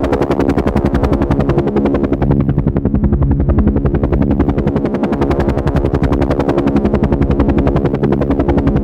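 Helicopter running steadily: a fast, even chop of the rotor blades over a steady low engine hum.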